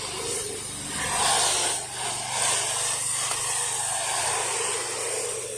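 Soft-wash rig's small engine-driven pump running steadily under the hiss of a low-pressure spray hose; the spray hiss swells about a second in and eases off just after two seconds.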